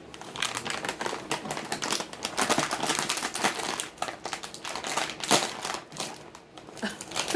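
Lay's chip bag crinkling and crackling as it is opened and handled, in irregular crackles throughout.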